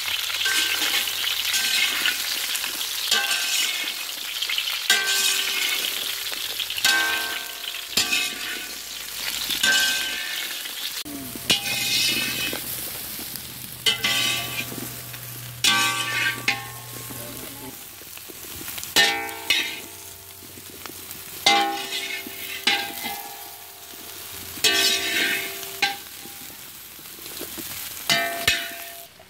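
Whole bitter gourds sizzling steadily as they fry in sesame oil in a wok. Every few seconds a metal ladle stirs them and scrapes against the pan.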